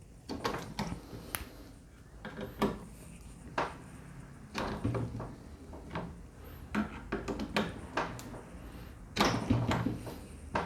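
Torque wrench tightening a rifle scope mount's screws one after another in a cross pattern: a run of irregular sharp clicks and knocks of the metal tool working on the mount.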